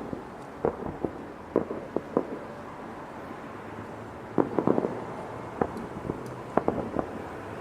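Fireworks popping and cracking at irregular intervals, with a quick cluster of cracks about four and a half seconds in, over a steady background noise.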